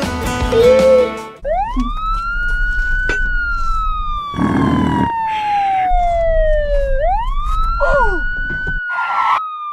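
Background music stops about a second in, then a police-style siren wails: its pitch climbs quickly and falls slowly, twice over.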